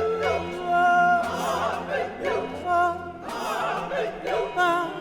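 Operatic voices singing with vibrato in several short phrases, with choir and orchestra, over a sustained low note that fades out about two seconds in.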